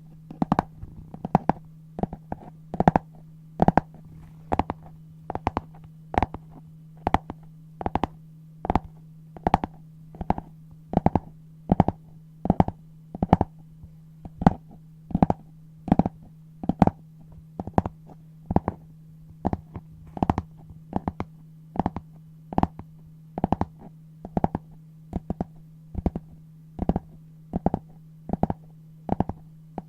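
Scissors cutting brown paper close to the microphone: crisp snips a little more than once a second, some coming in quick pairs. A steady low hum runs underneath.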